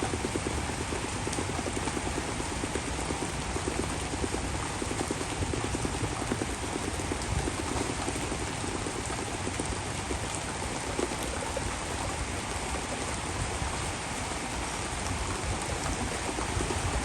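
Heavy rain pouring down steadily in a rainstorm, an even hiss with no letup.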